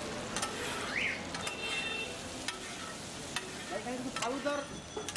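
Chopped chicken and onions sizzling in oil on a flat iron griddle, a steady hiss, with a metal spatula clicking and scraping against the griddle about once a second.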